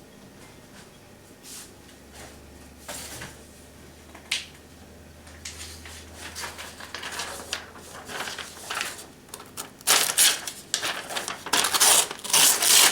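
Paper rustling and crumpling as a chipped, dulled knife edge is pushed and dragged through a sheet without cutting it cleanly. Scattered light handling clicks come first, and the loud rasping strokes near the end.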